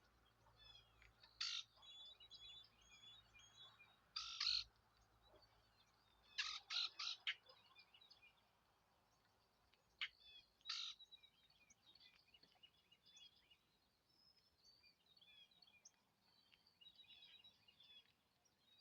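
Wild birds calling: a constant background of small high chirps and twitters, broken by loud harsh calls, one about a second and a half in, a longer one around four seconds, a quick run of four at six to seven seconds, and two more near ten and eleven seconds.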